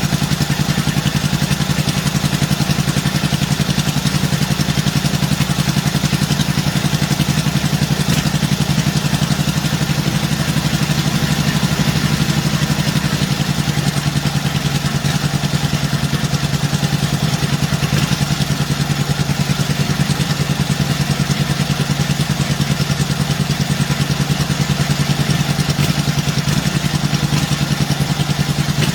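1948 Indian Chief's side-valve V-twin engine idling steadily with a rapid, even pulse, running on after a cold start.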